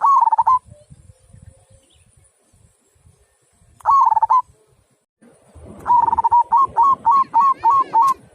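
Local zebra dove (perkutut) cooing: a held coo at the start, another about four seconds in, then a quick run of about eight short coos, roughly three a second, over the last two and a half seconds.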